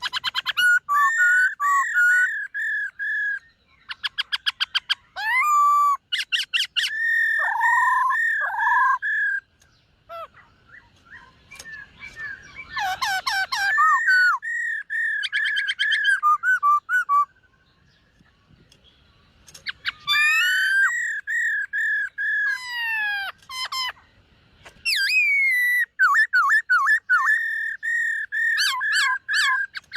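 Black-throated laughingthrush singing loud, varied whistled phrases: runs of rapid repeated notes and sliding whistles in several bouts, with short pauses between them.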